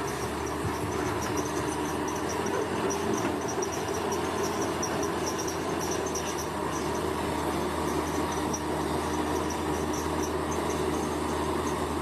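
A heavy earthmoving machine's diesel engine running steadily, with a high, rapid chirping over it.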